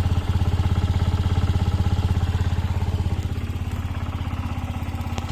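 Honda Gyro Canopy scooter's TA03 single-cylinder four-stroke engine idling with an even, steady beat, easing off slightly in level toward the end.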